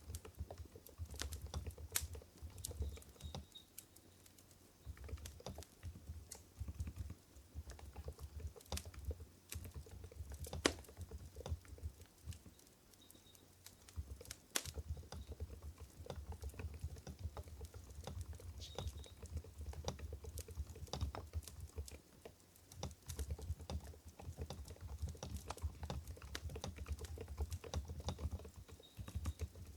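Typing on an Mstone Groove GV10 keyboard with 45 g silent Coral switches: soft, muted keystrokes with a low thud, in fast runs broken by short pauses.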